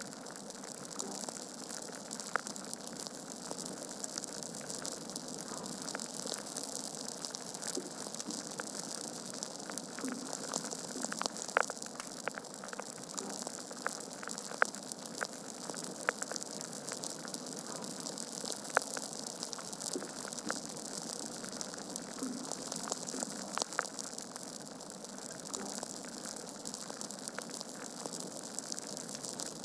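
Wood fire burning in a fireplace: a steady hiss with frequent sharp crackles and pops from the logs, a few louder snaps scattered through.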